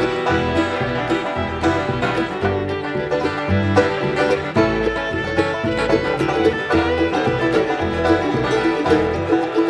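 Live bluegrass band playing, with quick banjo picking to the fore over guitar and steady low bass notes.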